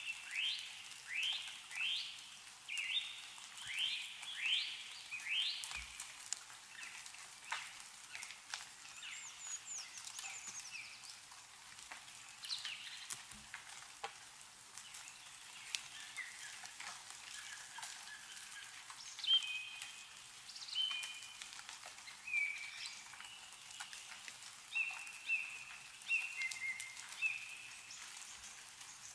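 Songbirds singing over dripping snowmelt. A run of quick rising notes comes in the first few seconds, with short chirps repeated in series later on. Scattered ticks of water drops fall throughout.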